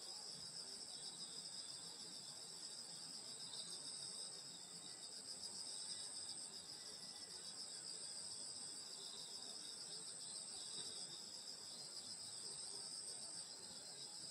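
Summer night chorus of grass insects such as crickets: a steady, high-pitched, unbroken trilling.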